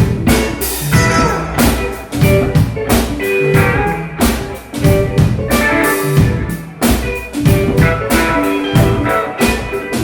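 Blues-rock music: a guitar riff over a drum kit beat, with regular drum hits and no singing.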